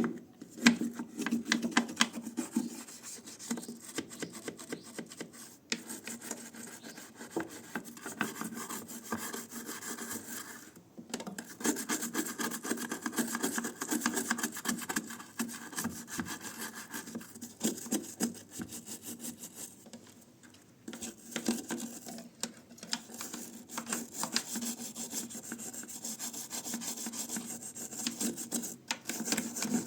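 Hand scrubbing: rapid back-and-forth rubbing strokes on a hard surface, in several bouts broken by brief pauses.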